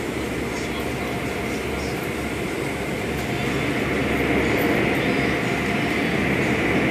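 Car wash air dryers blowing: a steady rush of air over a low hum, growing a little louder about halfway through.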